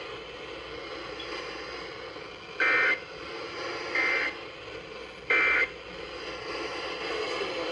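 Weather radio end-of-message signal: three short, loud two-tone digital data bursts (the EAS/SAME end-of-message code), a little over a second apart. Steady radio static hiss runs underneath, marking the close of a warning broadcast.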